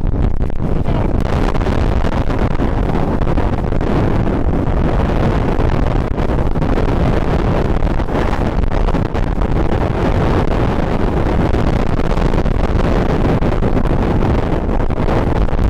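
Strong wind buffeting a microphone fitted with a furry windshield: a loud, unbroken noise with the heaviest rumble low down.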